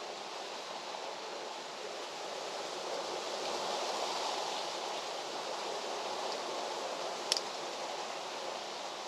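Steady outdoor rushing noise that swells for a couple of seconds in the middle, with one sharp click about seven seconds in.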